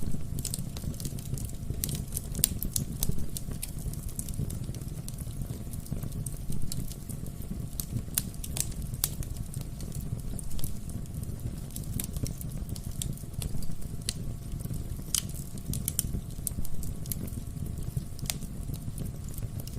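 Wood fire burning in a fireplace: a steady low rumble of flame with irregular sharp crackles and pops from the burning logs, several a second.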